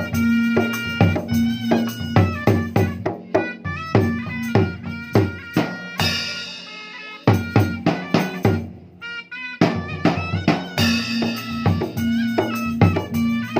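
Dangdut music driven by a gendang hand-drum rhythm, with a bass line and a melody on top. About six seconds in the drumming stops for a held chord that fades into a short, quieter break. The beat comes back about ten seconds in.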